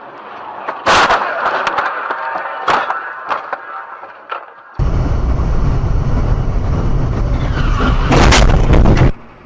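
Car collision picked up by a dash camera's microphone: a sudden loud crash about a second in, followed by clattering. Then a heavy low rumbling starts abruptly, with another loud bang near the end, and it cuts off suddenly.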